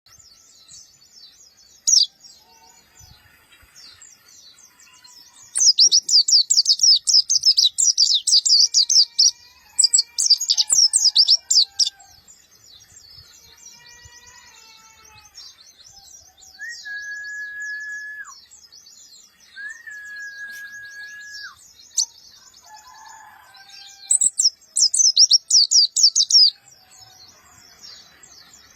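Mountain white-eye (pleci Monty) singing harsh, short rapid-fire bursts of high chattering notes, in two long runs about 6 and 24 seconds in, with scattered chirps between. Two long, steady whistled notes sound in the middle.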